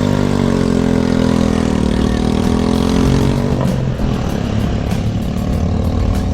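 A motor vehicle engine runs close by, its pitch wavering up and down, and drops away about three and a half seconds in, leaving a low rumbling noise.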